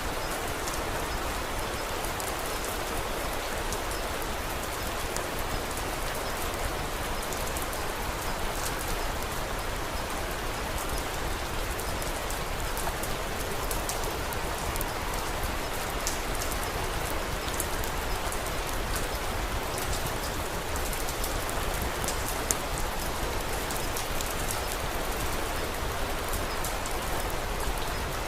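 Steady rain: an even hiss, with many faint sharp ticks throughout.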